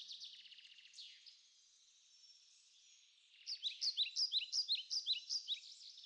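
Birds chirping and singing. A fast high trill comes first, then it goes quieter for a couple of seconds, then from about three seconds in a louder run of quick, repeated chirps.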